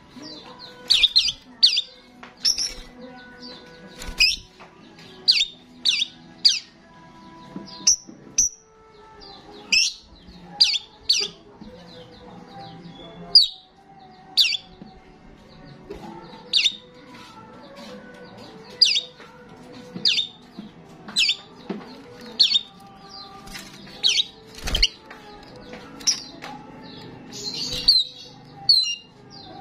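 Starling calling in full song: short, sharp chirps repeated about once a second, with a denser run of notes near the end.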